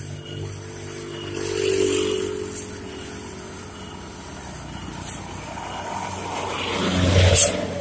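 A truck engine running as the truck passes on a steep downhill road. It grows louder about two seconds in and again to its loudest near the end, where there is a short hiss.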